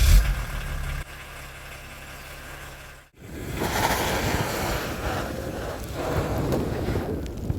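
Volvo 760's 2.4-litre straight-six turbo diesel running at idle with a steady low hum, louder for about the first second. About three seconds in it cuts off abruptly to a steady broad rushing noise.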